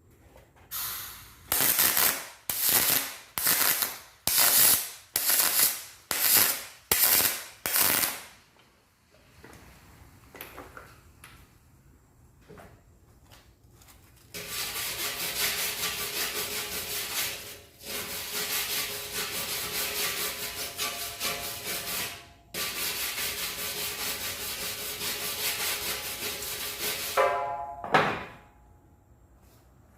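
About ten hand-scrubbing strokes on the aluminium tank, a little over one a second, cleaning the weld area. Later come three stretches of a steady, harsh hiss-buzz, each a few seconds long, from the repair work on the tank, ending with a single thump near the end.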